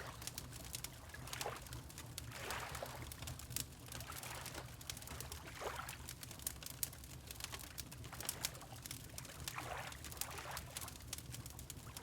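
Wood fire crackling with many sharp pops, over water lapping in soft splashes every few seconds and a steady low rumble.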